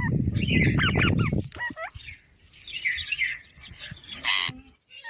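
Green parrots chirping and calling in short quick whistles that bend up and down, with a harsh squawk about four seconds in. A loud low rumbling noise runs under the calls for the first second and a half.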